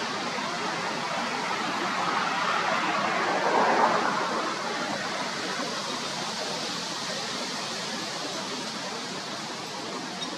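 Boeing 737 MAX 8 airliner's CFM LEAP-1B turbofans passing by: a steady rushing noise that swells to its loudest about four seconds in, its pitch falling as it goes past, then slowly fades.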